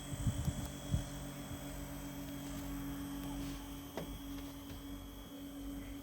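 Small solar-powered fan motor running with a steady hum, sped up by strong sunlight. A few low thumps in the first second and one about four seconds in.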